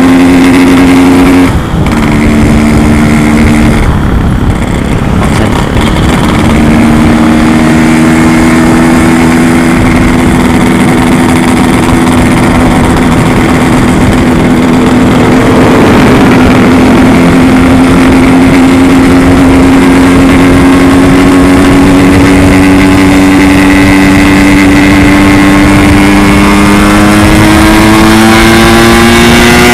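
Yamaha RX-King two-stroke motorcycle engine running loud while riding, with a brief dip about one and a half seconds in, then steady, its pitch climbing slowly toward the end as it picks up speed.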